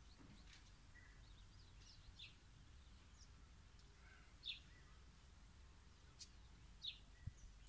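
Near silence with faint, short, high bird chirps scattered every second or so.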